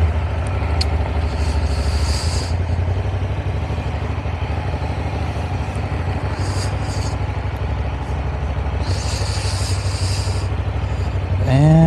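Ducati Monster 1200's L-twin engine running at low speed with a steady pulsing beat, with three short bursts of hiss along the way.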